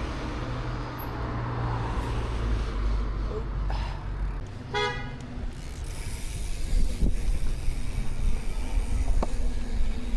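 A vehicle horn gives one short toot about five seconds in, over a steady low rumble of road traffic.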